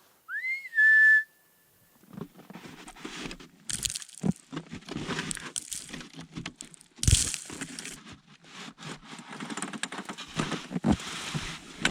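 A short whistle that rises in pitch and then holds a steady note, about half a second in, followed by irregular crunching and scraping of packed snow as snow blocks are worked on the igloo wall.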